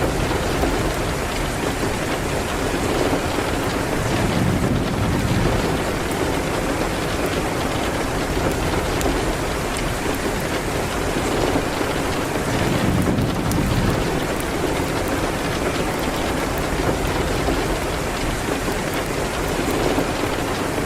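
Steady rain beating on a window in a dense, even hiss. Low rumbles of thunder swell and fade twice, about four seconds in and again around twelve seconds. Faint crackles of a wood fire tick through it.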